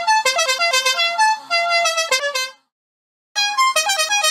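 Musical bus horn playing a quick tune of short notes that jump in pitch. It stops about two and a half seconds in and starts up again after a short pause.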